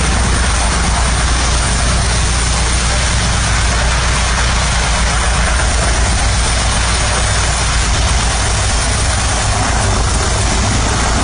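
Military helicopter running steadily: loud, even engine and rotor noise with a heavy low drone and a fast fluttering beat.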